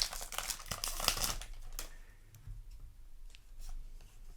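Crinkling and rustling of a foil booster pack and trading cards being handled, densest in the first couple of seconds, then a few faint ticks.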